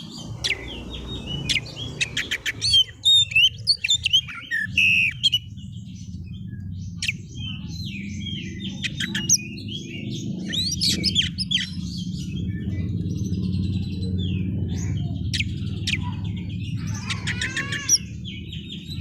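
Oriental magpie-robin (kacer) singing hard in a fast, varied stream of chirps, whistled glides and sharp clicks, densest a few seconds in, over a steady low background rumble.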